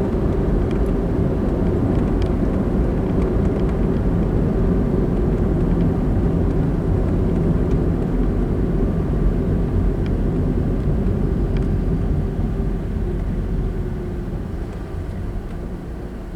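Car driving on the road: a steady rumble of tyres and engine that grows quieter over the last few seconds as the car slows.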